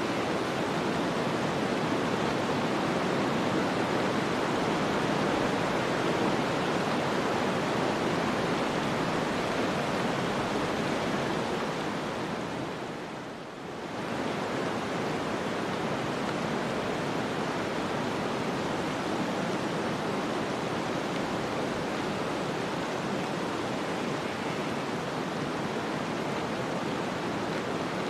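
Steady rushing snowstorm wind, an even hiss-like noise that dips briefly about halfway through, then swells back to the same level.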